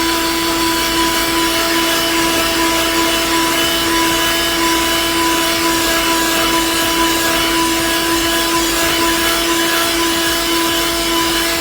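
A budget car vacuum cleaner runs steadily: a constant motor whine over a rush of air, with no change in pitch.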